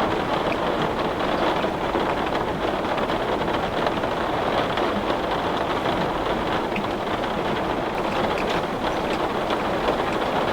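Heavy rain falling steadily on a window, a dense even patter with many small drop ticks on the glass.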